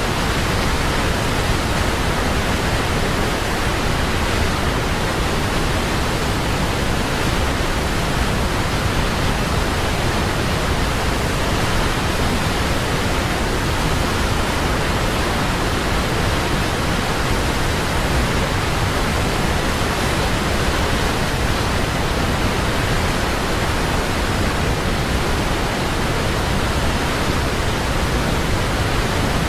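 Large waterfall: a steady, loud roar of falling water that does not change.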